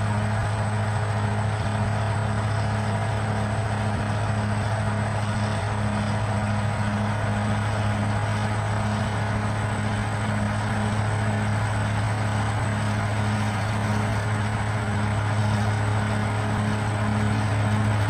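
Bulldozer's diesel engine running steadily under load, a low drone with a regular pulsing about twice a second.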